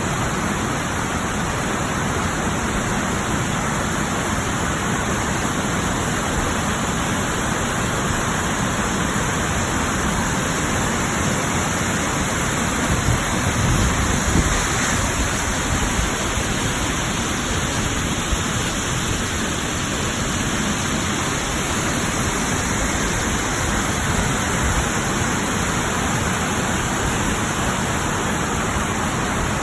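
Waterfall, a steady rush of falling water, with a brief louder low rumble about halfway through.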